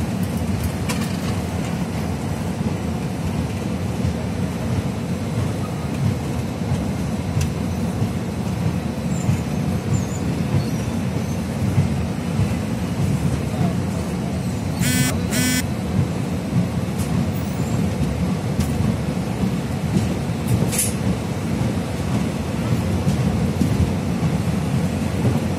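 Freight train of open steel wagons rolling past at steady speed: a continuous low rumble of wheels on the rails. About halfway through, two short high rattles sound close together.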